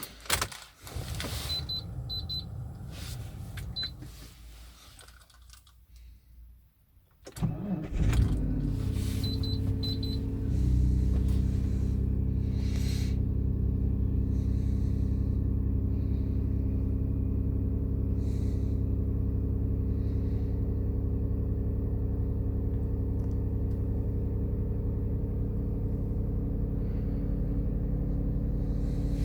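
Mitsubishi Galant cold start: key clicks and a few short electronic chime beeps, a brief crank, and the engine catches about eight seconds in. It settles into a steady cold idle that steps up slightly a couple of seconds after starting and then holds even.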